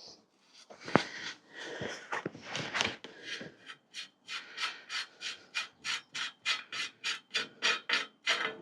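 Hand-worked rasping or rubbing strokes, irregular at first with a sharp click about a second in, then settling into a steady rhythm of about three or four strokes a second.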